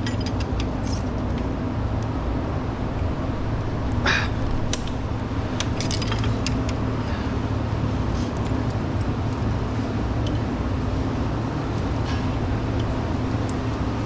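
Light metal clicks and clinks of hand tools working on the valve train during an exhaust valve lash adjustment, scattered and mostly in the first half, with a brief scrape about four seconds in. Under them runs a steady low hum.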